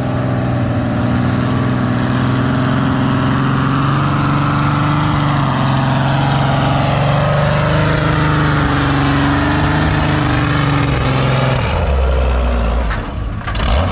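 Old Ford farm tractor engine running hard under load, pulling a weight-transfer sled, with a steady drone that wavers slightly in pitch. About twelve seconds in the engine note drops away and a low rumble is left.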